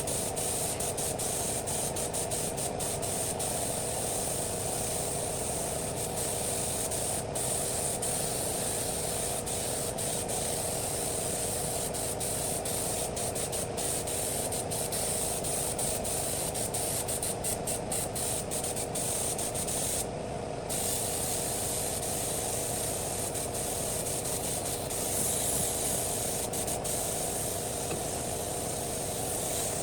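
Steady mechanical hiss over a constant hum, like compressed air or a spray. The hiss cuts out briefly about twenty seconds in while the hum carries on.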